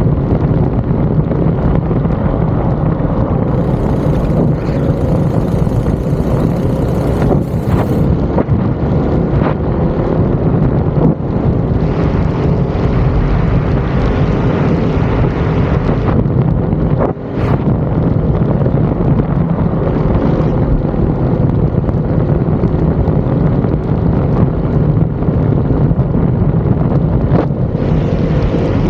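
Go-kart engine running hard at racing speed, its pitch drifting up and down with the revs, with a brief drop about two-thirds of the way through.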